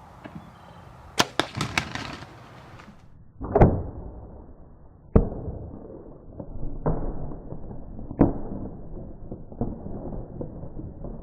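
A quick run of sharp clicks, then a heavy thump about three and a half seconds in and a scatter of further knocks and thumps.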